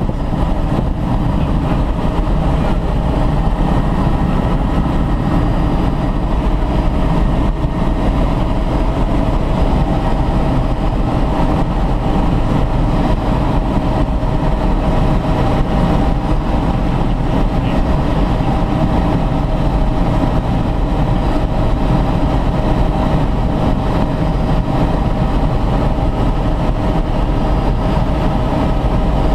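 Helicopter in flight heard from inside the cabin: loud, steady engine and rotor noise with a faint steady whine over it.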